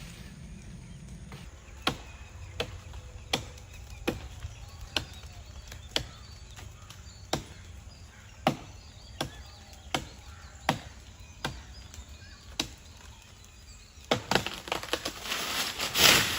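An axe chopping into wood: a dozen or so sharp single blows, about one every three quarters of a second. Near the end come a few quicker knocks and a rising rush of noise.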